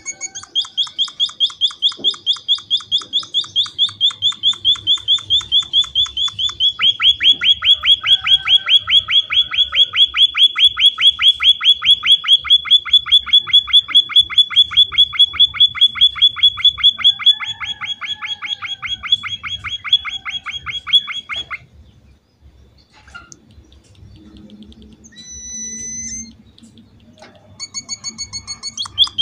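Emprit finch calling a long fast run of sharp repeated chirps, about five a second, that stops about three-quarters of the way through; after a short pause with a few brief higher whistled notes, the chirping starts again near the end.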